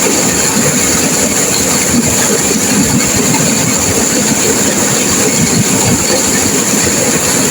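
Turbulent river water rushing and crashing, a loud, steady noise with no letup.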